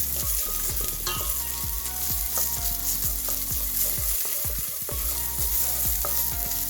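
Onions with tomato puree sizzling in a frying pan while being stirred, the utensil scraping through the pan in repeated short strokes.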